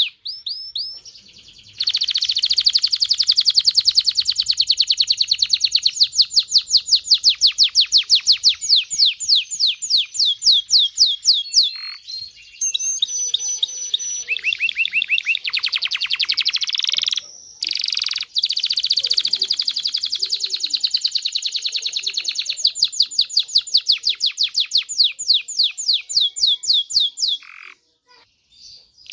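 Domestic canary singing: long, fast trills of rapidly repeated high notes, phrase after phrase with short breaks, falling silent briefly near the end.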